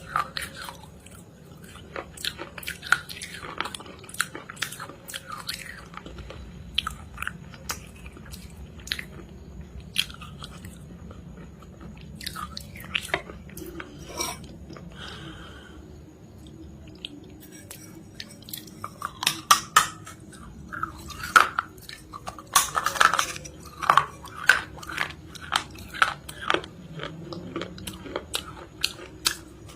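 Close-up biting and chewing of something hard and crunchy: irregular sharp crunches and crackles, coming thicker and louder in the second half.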